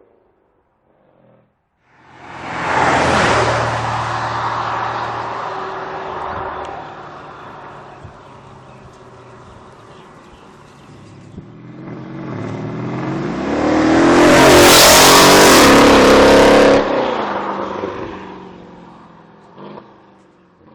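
Mercedes-Benz CLS 63 AMG's V8 exhaust: the car accelerates hard about two seconds in and its sound fades away, then it comes by again louder, the note rising to a peak and dropping in pitch as it passes, fading near the end.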